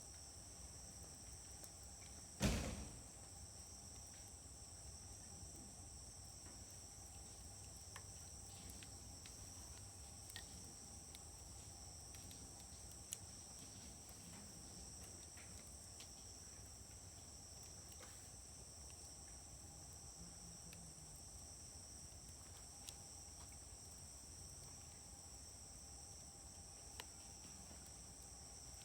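Wood fire burning in a Uniflame fire grill, mostly quiet, with one loud sharp pop about two and a half seconds in and a few faint crackles after it. Insects keep up a steady high chirring underneath.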